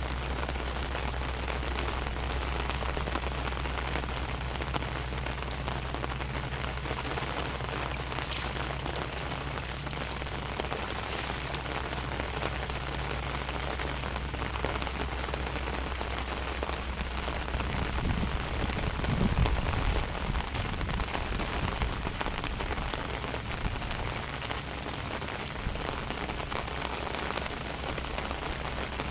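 Steady rain falling, an even hiss of drops, over a low steady hum. About two thirds of the way in there is a brief low rumble.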